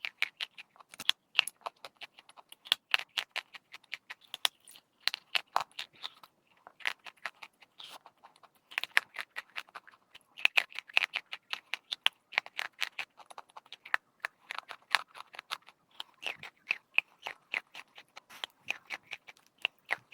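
Chalk being crunched: rapid, dense crackling snaps coming in runs, with a short pause about six seconds in.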